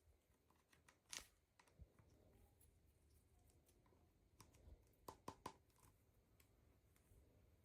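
Near silence with a few faint, brief clicks, a cluster of three about five seconds in, from small plastic pieces being handled.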